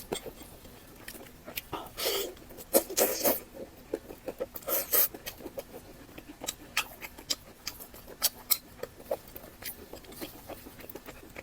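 Close-miked eating sounds: wet mouth clicks and smacks of chewing, with a few louder bursts about two and five seconds in.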